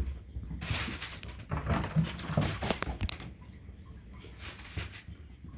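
A cat's paws scrabbling and sliding across the floor in bursts of scraping noise with small ticks, after a thump at the start.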